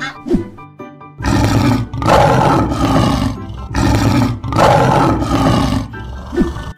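Lion roar sound effect: a long, loud roar in about four swells, starting about a second in, over light background music.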